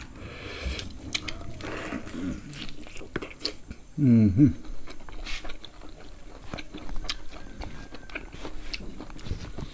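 Close-up mouth sounds of people eating roasted pig head: chewing and biting, with many short wet clicks. About four seconds in, a short vocal sound falling in pitch from one of the eaters.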